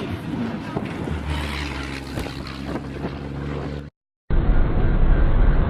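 Rally truck engine running with a steady low drone from about a second in, with wind buffeting the microphone. After a brief cut near the end, a louder, muffled heavy engine rumble.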